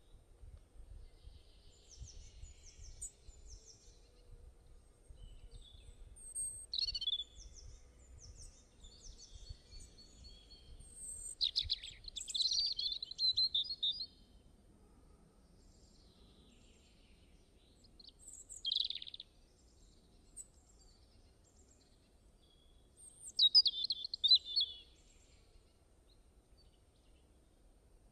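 Songbirds chirping and trilling in scattered flurries, the loudest near the middle and again near the end, over a faint low rumble.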